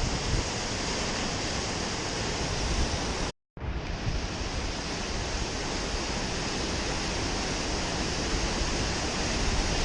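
Steady rushing of falling water from a waterfall, cut off to silence for a split second about a third of the way in before carrying on.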